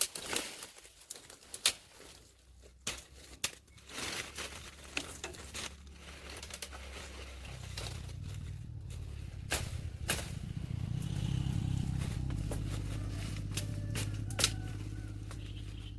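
Scattered clicks and knocks of hands working on metal parts, then a low, steady motor hum that starts about halfway through and builds a little.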